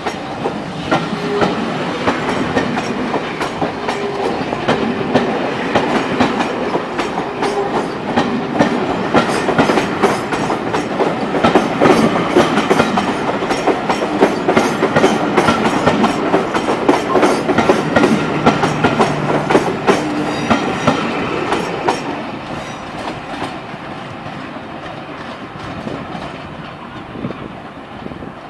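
Steam-hauled passenger train departing, its coaches rolling past with wheels clicking rapidly over the rail joints. The sound fades away over the last several seconds as the train pulls out.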